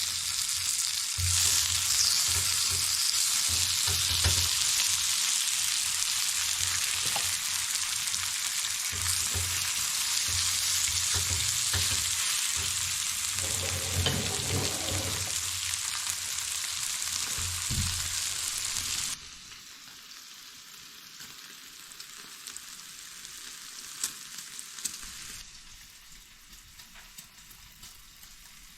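Steady sizzling hiss with soft low thumps underneath. It drops sharply in level about two-thirds of the way through and dims again a few seconds before the end.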